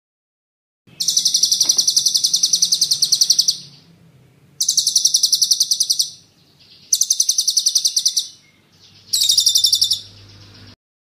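Songbird singing a fast rolling trill of sharp high notes, about a dozen a second, in four bursts with short pauses, the first about two and a half seconds long and the later ones shorter. It stops suddenly shortly before the end.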